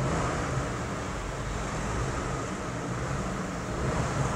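Jeep Compass's 1.3-litre turbo flex-fuel four-cylinder (T270) engine idling steadily, heard from inside the cabin as a low, even hum; the engine is very quiet, barely audible.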